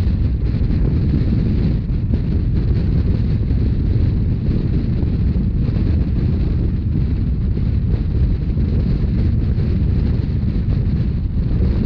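Steady low rumble of a narrow-gauge Rhaetian Railway train running, mixed with wind buffeting the microphone.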